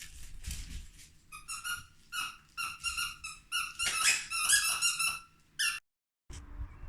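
Squeaky dog toy squeaked over and over in quick short squeaks as a dog chews on it, starting about a second in and stopping abruptly near the end.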